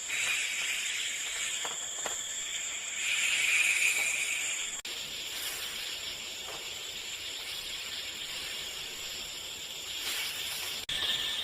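Steady high-pitched hiss of outdoor ambience, with a few faint clicks; its tone changes abruptly about five seconds in and again near the end.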